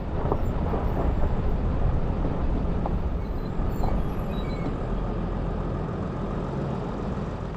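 A vehicle running with a steady low rumble of engine and road noise, with a few faint knocks.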